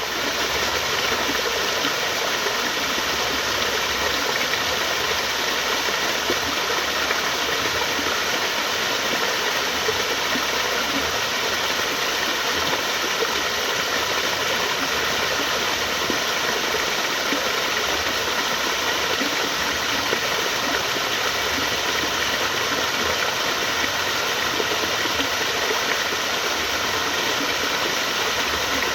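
Flowing water rushing steadily and without a break, an even hiss-like sound with no distinct splashes or drops.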